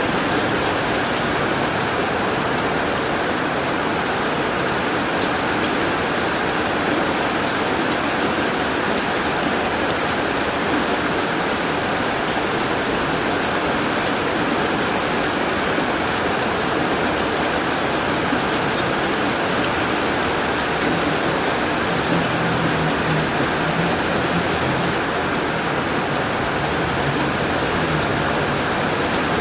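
Steady heavy rain drumming on a tin roof, a dense even patter with fine individual drop ticks.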